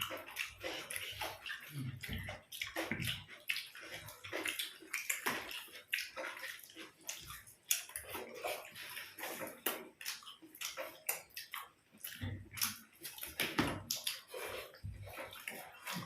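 People eating with their mouths close to the microphone: a dense, irregular run of wet chewing clicks and lip smacks.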